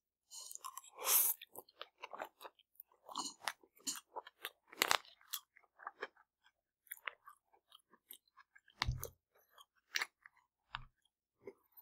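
Chewing and mouth sounds of someone eating spicy rice noodles: irregular wet smacks and small clicks, with a couple of soft low thumps near the end.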